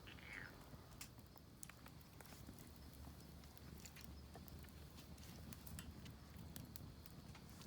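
Faint, irregular crackling and popping of a small wood fire burning in a Picogrill, with a brief falling squeak near the start.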